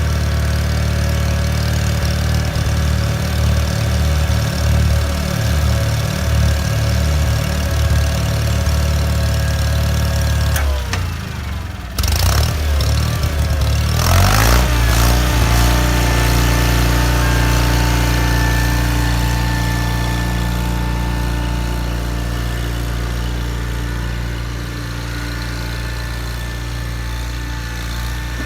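John Deere 318 garden tractor's Onan two-cylinder engine running steadily; about ten seconds in its note dips and falls off briefly, then picks back up and runs on evenly.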